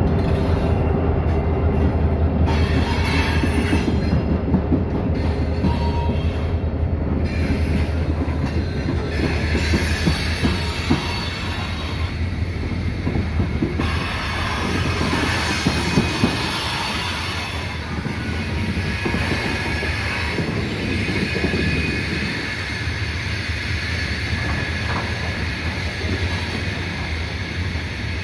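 Diesel freight train passing close by. The trailing locomotive's engine rumble is strong at first and fades after about ten seconds, leaving hopper and tank cars rolling past with wheel clatter and high-pitched wheel squeal.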